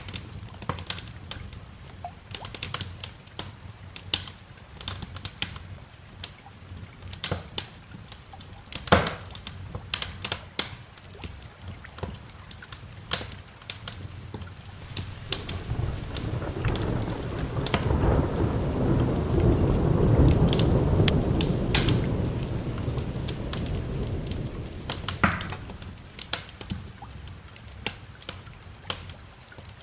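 Wood fire crackling with sharp pops throughout, over steady rain. About halfway through, a long low roll of thunder swells up, peaks, and slowly dies away.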